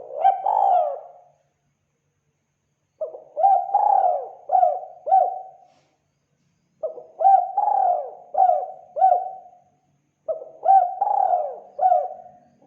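Spotted dove cooing: four phrases of several low coos each, a few seconds apart. It is a lure call used to draw in wild doves.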